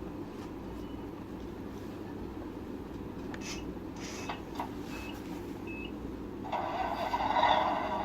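Electronic sound unit of a Tamiya radio-controlled truck: a few short beeps among light clicks, then about two-thirds of the way through a loud simulated engine sound cuts in abruptly over a steady low hum.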